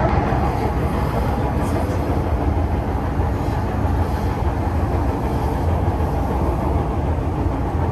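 MTR Disneyland Resort Line M-Train electric multiple unit running, heard from inside the car: a steady rumble.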